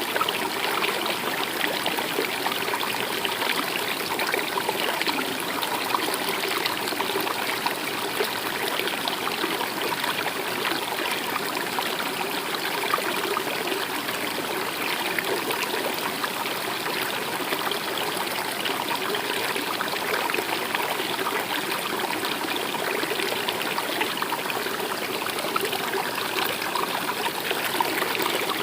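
Stream of water running steadily, an even rush of flowing water that holds the same level throughout.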